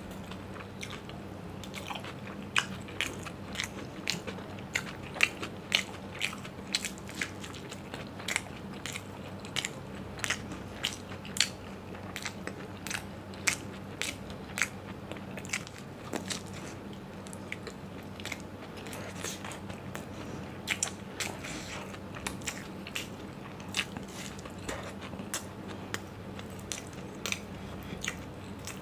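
Close-miked chewing of crisp fried moong dal pakodas: an irregular run of crunchy crackles and sharp mouth clicks over softer wet chewing.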